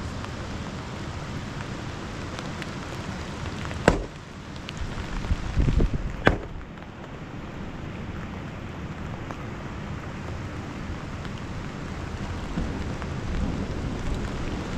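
Steady rain falling, with two sharp knocks, about four and six seconds in, and a short spell of low thudding between them.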